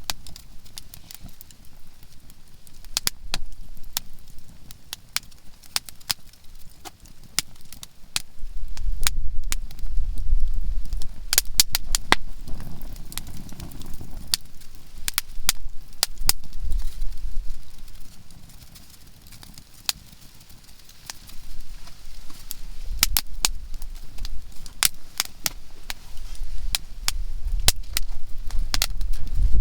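Conifer firewood burning in a campfire, crackling with many sharp, irregular pops, some in quick clusters. Low rumbling comes and goes underneath.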